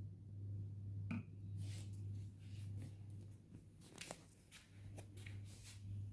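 Soft rustling and a scatter of light clicks, like hands handling something, over a steady low hum.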